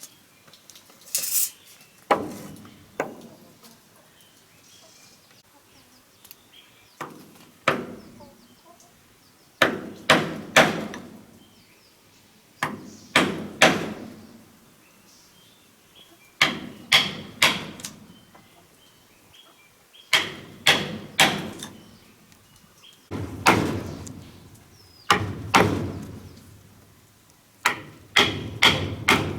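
Repeated heavy blows on wood, struck in quick bursts of two to four, one burst every two to three seconds.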